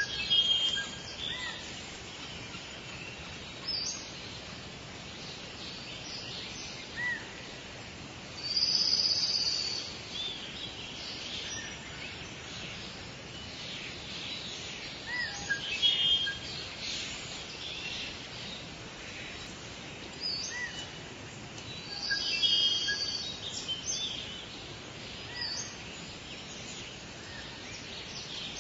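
Forest birdsong over a steady faint background hiss: several birds calling, with loud chirping phrases every few seconds and short whistled notes in between.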